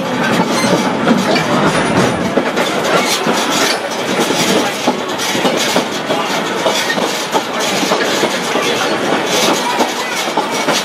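Hawaiian Railway heritage train running along the track, heard from on board: a steady rumble and rattle of the cars with many short knocks of the wheels over the rails.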